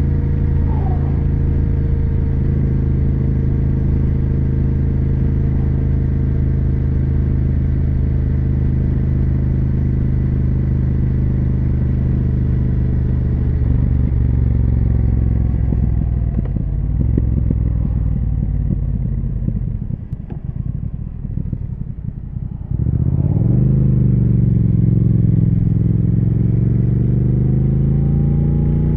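2020 Triumph Speed Twin 1200's parallel-twin engine and exhaust under way: holding a steady speed, then easing off so the note drops and quietens, then back on the throttle about 23 s in with the revs climbing.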